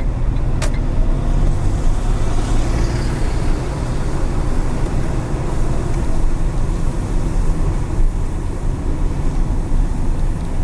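A car driving through city traffic on wet streets: steady low road and engine rumble with tyre hiss. A single sharp click comes under a second in, and a brief rushing swell, such as a passing vehicle, follows a couple of seconds later.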